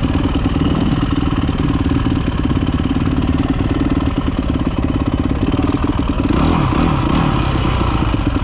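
Dirt bike engine running steadily, its pitch dipping and then rising again with throttle changes about six seconds in.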